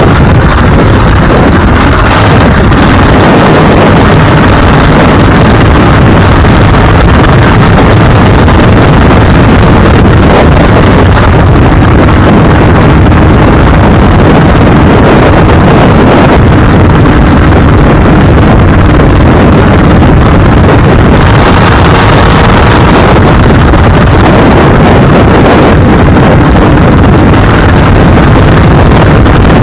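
Loud, steady wind buffeting the microphone, mixed with vehicle engine and road noise, from a vehicle on the move.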